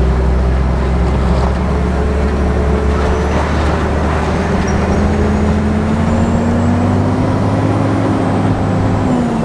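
Scania R420 truck's diesel engine running under steady load, its pitch climbing slowly and then dropping near the end.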